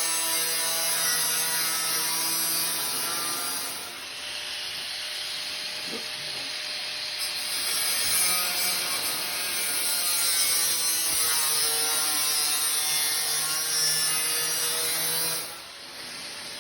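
Angle grinder running with a steady motor whine and the hiss of a disc cutting a Z-profile strip. It goes quieter for a few seconds about four seconds in, comes back full, and stops near the end.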